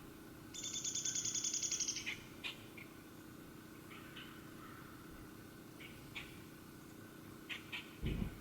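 A songbird's rapid high trill of about a dozen notes a second lasts a second and a half, starting about half a second in. Scattered short chirps follow, and there is a brief low thump near the end.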